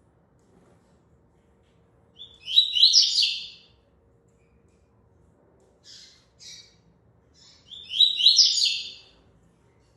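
Double-collared seedeater (coleiro) singing: two short, high-pitched song phrases about five seconds apart, with two brief chirps between them.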